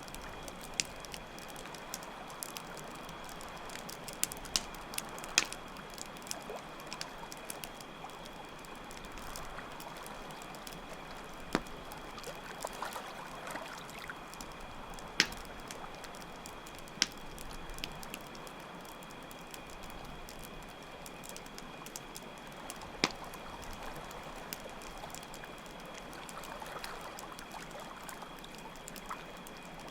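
Campfire crackling with scattered sharp pops, over a steady wash of running water and a continuous high cricket trill.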